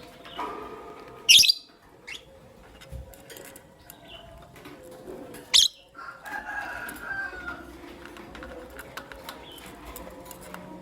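Lovebirds chirping: two short, shrill, loud calls, about a second in and again about five seconds in, with softer chattering between.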